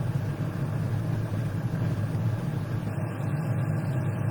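A steady low hum, unchanged throughout.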